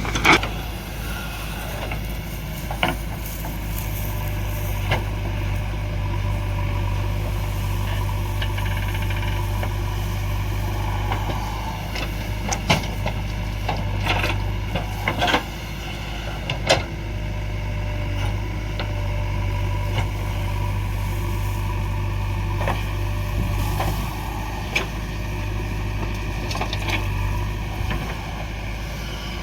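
Heavy diesel engines of a backhoe loader and tractors running steadily during earth loading. Sharp knocks and clanks come every few seconds over the engine hum.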